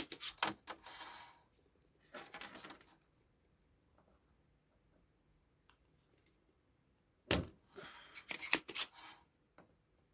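Hand tools clicking and scraping against a TV power supply board during capacitor replacement, in three short bursts: at the start, about two seconds in, and a louder cluster of sharp clicks near the end.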